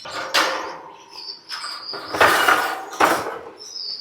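Rough swishing and scraping noises, three of them, the loudest about two seconds in, with short high finch chirps between them.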